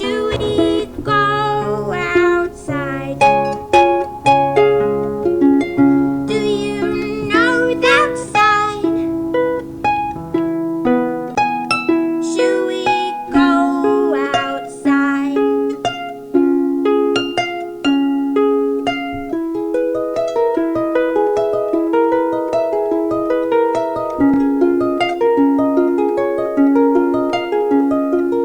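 Harp music: a steady run of plucked notes. A few held, wavering notes, like a singing voice, sound over it in the first half.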